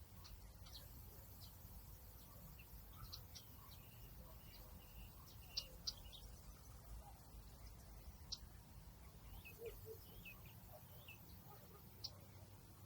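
Faint outdoor nature ambience: small birds giving scattered short, high chirps over a steady low rumble, with two slightly louder chirps close together about halfway through.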